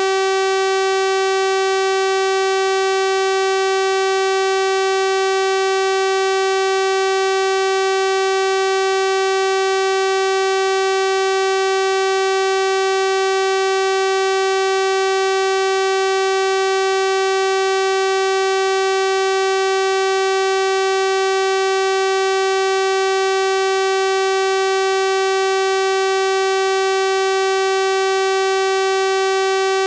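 A steady synthesized 384 Hz sawtooth-wave tone: one unchanging buzzy pitch, rich in overtones.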